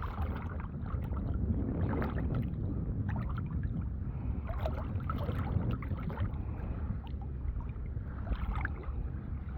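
Water sloshing and lightly splashing as a Shih Tzu swims in a flotation vest, with a few soft splashes from her paddling.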